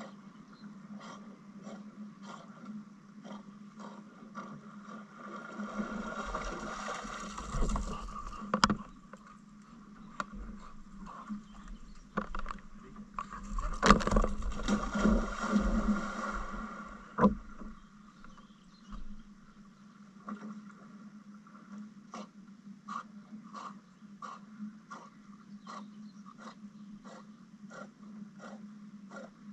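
Canoe being paddled on a river: a steady rhythm of short knocks and drips, about two a second. Twice there are louder stretches of splashing and knocking, about six and fourteen seconds in.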